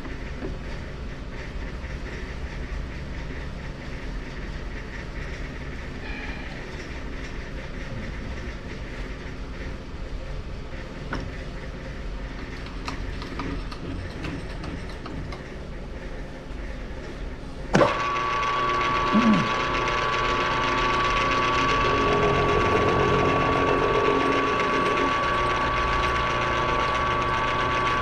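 Milling machine in a machine shop: a low steady rumble, then a sharp click near the two-thirds mark as the spindle is switched on, after which the machine runs louder with a steady high whine.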